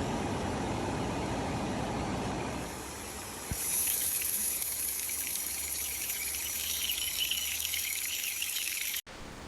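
A low rushing noise for about the first three seconds. Then, about three and a half seconds in, fat starts sizzling in a cast-iron pan over a wood fire: a steady high hiss with fine crackling, which stops abruptly near the end.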